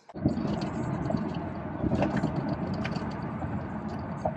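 Steady low rumble of a vehicle in motion, heard from inside the cabin, with a few faint ticks.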